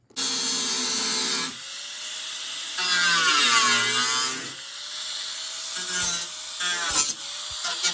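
Handheld power drill running in several bursts, its motor pitch sagging under load and rising again as it bites.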